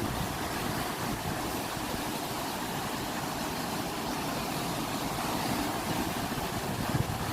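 Ocean waves: a steady rushing wash of surf.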